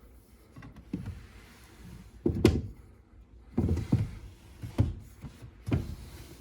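A series of about five dull knocks and thuds over a few seconds, the loudest about two and a half seconds in, with a soft hiss between the later ones.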